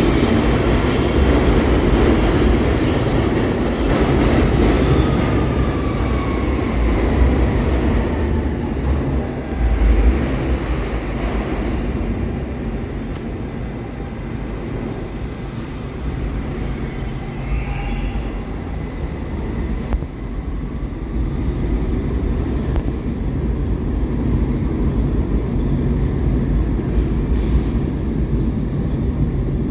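New York City subway train running on the rails, a steady low rumble with thin wheel squeals that slide in pitch over the first several seconds and a short higher squeal about two-thirds of the way through.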